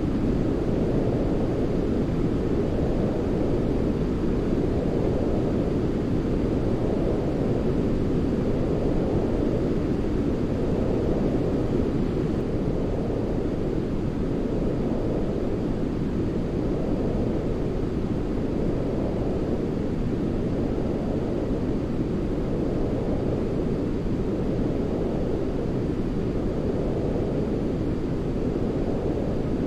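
Steady, deep, rumbling noise for baby sleep, weighted to the low end like brown noise rather than hissy white noise, with gentle swells about every four seconds.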